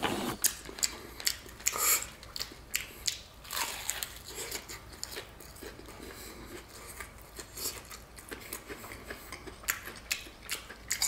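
Crunching and chewing of a deep-fried, crispy-battered turkey leg being bitten and eaten, with many short, sharp crackles of the crust; the loudest come right at the start and around two and three and a half seconds in.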